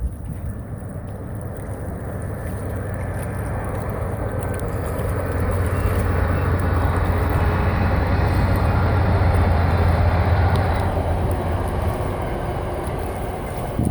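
Train rumbling past on its crossing over the creek, growing louder to a peak about two-thirds of the way through and then easing off, with a steady low drone under the noise.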